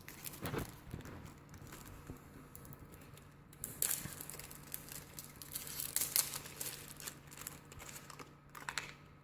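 Plastic blind-bag packaging crinkling and crackling as it is handled and pulled at to get it open, with louder bursts of crinkling about four and six seconds in.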